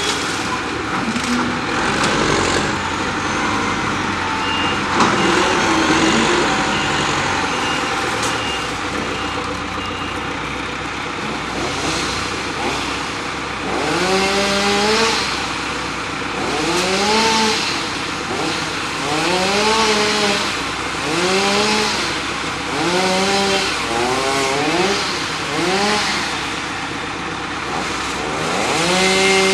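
Heavy equipment clearing storm branches: engines running, with a reversing beeper sounding a short run of evenly spaced beeps in the first seconds. From about halfway an engine is revved up and down over and over, about once every second or two, and ends held at a steady high pitch.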